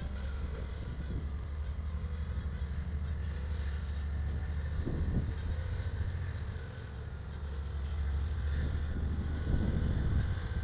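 Freight train rolling past, a steady low rumble of wheels on rail with a few clanks about halfway and near the end, and a faint high squeal over it.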